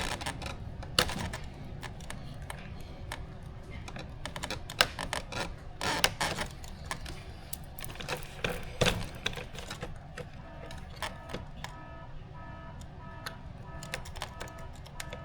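Irregular clicks and taps of small plastic parts and little screws being handled and fitted as the RC plane's wheels are put on.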